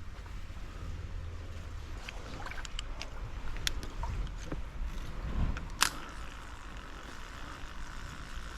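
Steady rushing of a mountain stream with a low rumble underneath, and scattered small clicks and ticks of handling gear, the sharpest a little before six seconds in.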